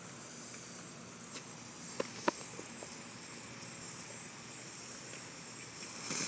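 Faint steady chirring of night insects, with two short sharp clicks about two seconds in. Near the end, the hiss of a firework fountain starts and rises.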